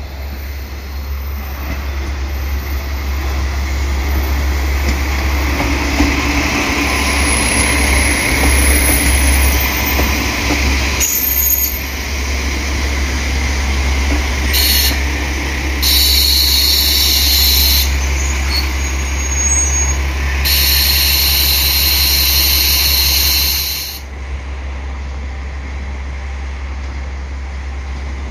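A train running past at a station, swelling over the first few seconds and staying loud, with a high hiss or squeal in the second half. The loud sound drops off abruptly about 24 seconds in, leaving a quieter steady rumble.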